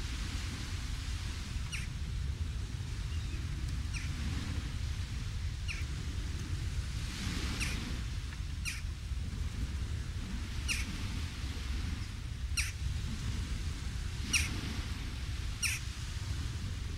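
A bird chirping, short high calls repeated every second or two, over a steady low rumble.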